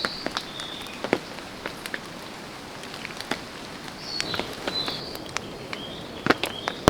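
Irregular sharp taps scattered through the forest quiet, with a small bird giving short chirping notes now and then, several of them in a cluster about four seconds in.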